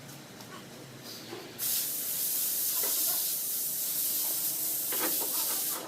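A steady pressurised spray hiss that starts abruptly about one and a half seconds in and runs for about four seconds before cutting off, with a few light knocks of tools.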